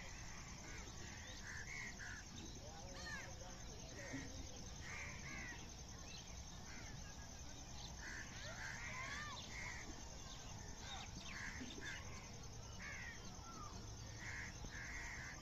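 Birds calling outdoors: repeated short calls in groups of two or three every few seconds, with thin gliding chirps in between, over a steady low background noise.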